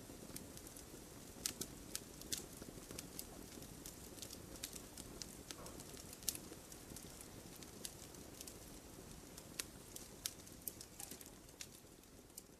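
Wood campfire crackling: irregular sharp pops and snaps over a faint low rumble of the flames.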